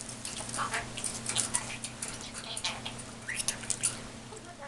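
Small pet bird at a mirror, making quick soft clicks and a few short chirps.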